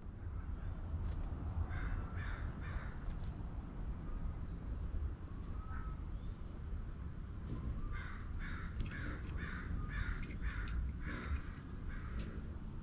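Bird calling in runs of repeated calls: three or four about two seconds in, then a longer series of about seven evenly spaced calls about eight seconds in. A steady low rumble sits underneath.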